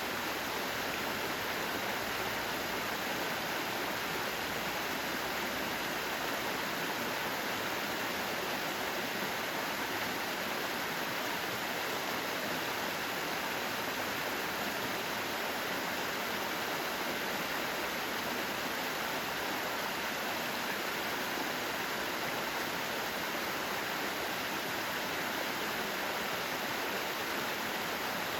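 Mountain valley stream, water rushing in a steady, even wash.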